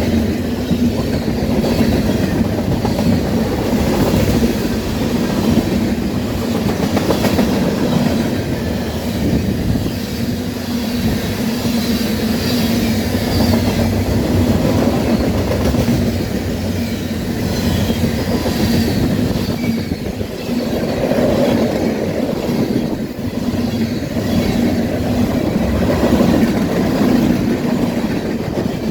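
A passing train, its railroad cars rolling past with a continuous steady wheel noise on the rails.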